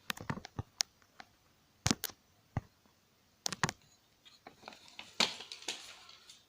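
Sharp clicks and knocks of small plastic and metal parts of a DVD drive being handled and taken apart, in scattered groups, with a short scraping rustle near the end.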